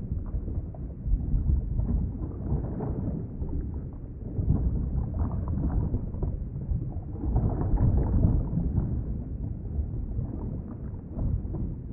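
Underwater ambience: a muffled, low rumbling wash of water that swells and eases every few seconds.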